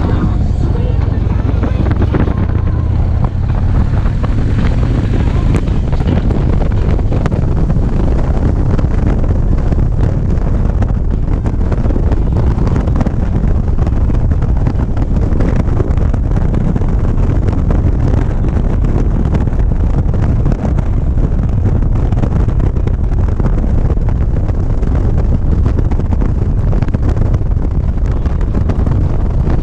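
Motorcycle riding at a steady speed, its engine and road noise largely buried under heavy wind noise on the action camera's microphone.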